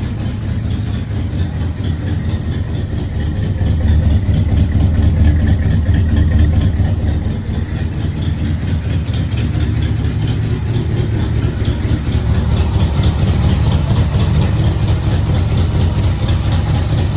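1967 Chevrolet Impala engine idling just after a cold start, having sat unstarted for about a week. Its low, steady running grows somewhat louder about four seconds in, drops back a little after about seven seconds, then runs evenly.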